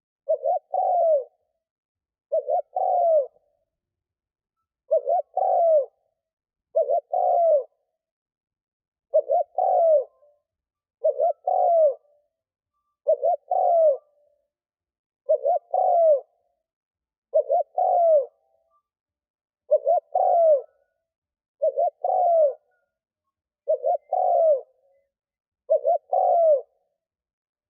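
Spotted dove cooing, a decoy's call for luring wild doves: a short phrase of two or three coos, the last one falling, repeated about every two seconds with silence between.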